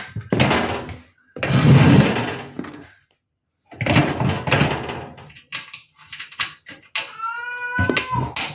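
Bursts of scraping and rustling handling noise as screws are fitted to the heater's fan motor body, with a few clicks. Near the end a cat meows once, a single call that bends in pitch.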